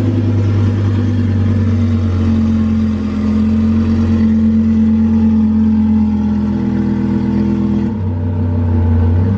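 Twin-turbo Lamborghini Huracán's V10 engine held at a steady raised speed while it is being tuned through a laptop. Its note shifts slightly about a second before the end, then drops away suddenly.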